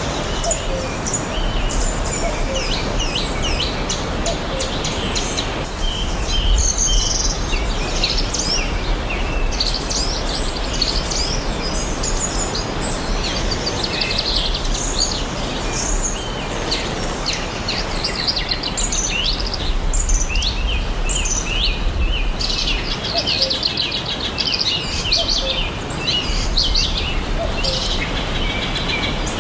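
Many birds chirping and singing at once, with short calls and fast trills overlapping throughout, over a steady background hiss and low rumble.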